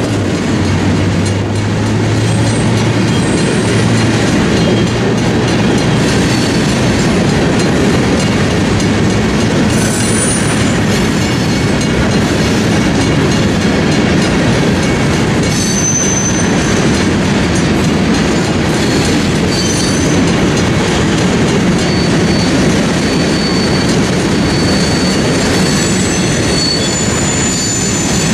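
Covered hopper cars of a freight train rolling past on the rails: a steady rumble and clatter of steel wheels. Brief high-pitched wheel squeals come in now and then, more often near the end.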